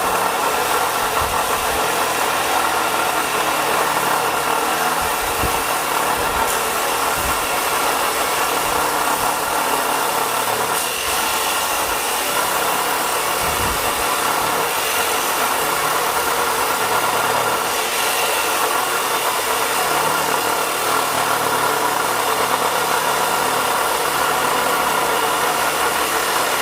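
Arc welding on steel: a steady, crackling hiss of the arc held in one long continuous weld, reinforcing the axe blades against the H-beam.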